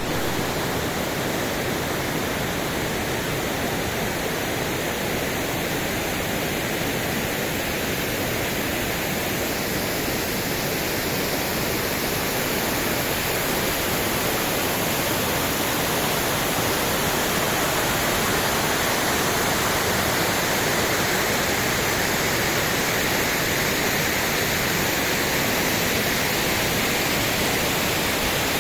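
Waterfall crashing steadily, a loud, even rush of falling water that grows slightly louder about halfway through.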